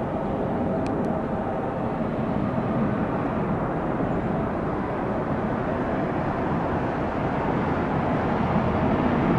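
Jet airliner engines, a steady rumble that grows louder near the end.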